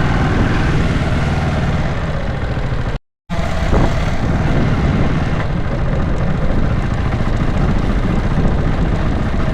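Vehicle travelling along a road: a steady, loud rumble of engine and road noise. It cuts out for a moment about three seconds in.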